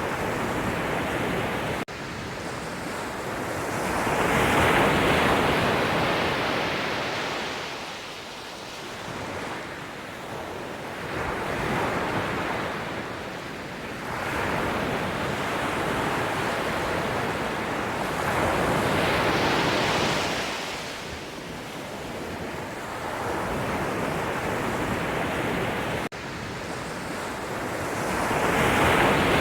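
Ocean waves breaking and washing ashore, the surf swelling and ebbing in slow surges, loudest about five seconds in, around twenty seconds, and near the end.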